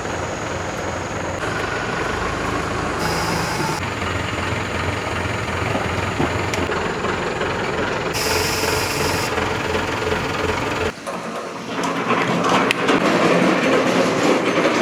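Machinery running with a steady low drone and rattle, with two short high hisses; the sound changes abruptly to a busier clattering about eleven seconds in.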